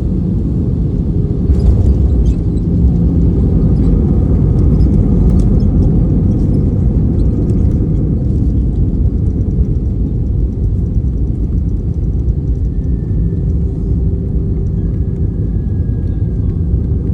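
Steady low rumble of an airliner landing, with a few brief knocks and rattles about one and a half to two and a half seconds in.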